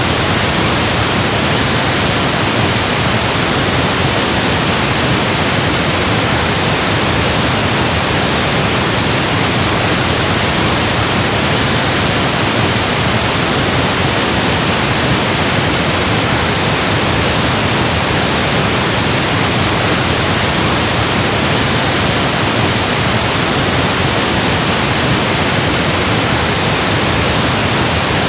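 Steady electronically generated pink noise: an even, unchanging hiss across all pitches.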